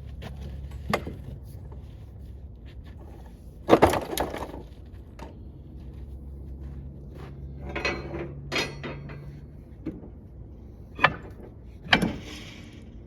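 Irregular clanks and knocks of tools and heavy metal parts being handled during truck brake work, the loudest clatter about four seconds in, over a low steady hum.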